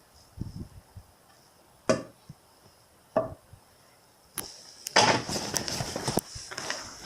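Hard objects being handled on a work surface: single knocks about two and three seconds in, then a burst of clicking and rattling clatter a little past the middle.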